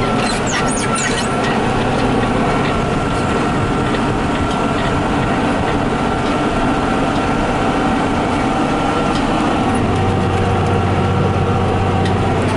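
Steady drone of a farm machine's diesel engine and drivetrain heard from inside its cab, with a thin steady whine over it. A deeper low hum joins about ten seconds in.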